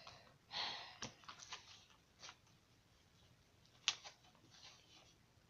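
Quiet handling of paperback books: a short rustle about half a second in, then a few light taps and clicks, the sharpest just before four seconds in.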